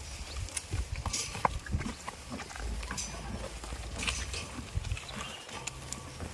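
Goats moving about close by: scattered short clicks, knocks and rustles, with no bleating.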